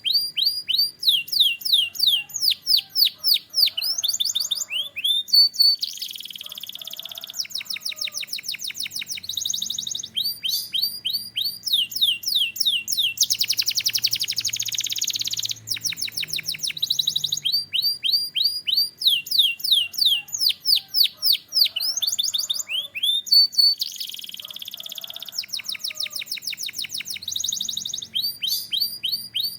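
Canary singing: high runs of rapid falling whistled notes alternating with dense rolled trills, phrase after phrase with short gaps. The same sequence of phrases comes round again about every 19 seconds.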